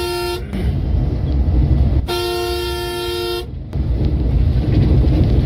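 A vehicle horn sounding over a steady low rumble of engine and road noise: a toot that ends just after the start, then one long blast of about a second and a half.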